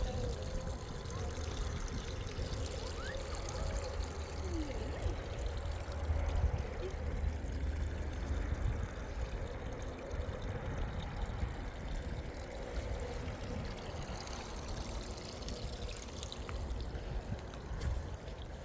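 Mountain spring water pouring and trickling steadily.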